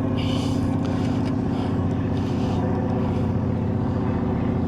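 A steady, low engine drone with an even pitch, from a motor running nearby, with a brief hiss about a quarter of a second in.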